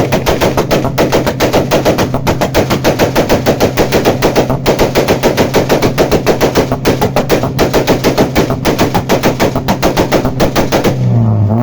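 Honda Civic engine revved and held against the rev limiter, the exhaust stuttering in rapid, machine-gun-like bangs about seven times a second over a steady high engine note. It is let off near the end and the revs fall.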